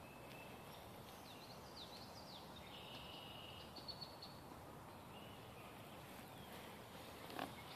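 Faint calls and short whistled songs of a few wild birds over a steady woodland hiss, with a single short knock near the end.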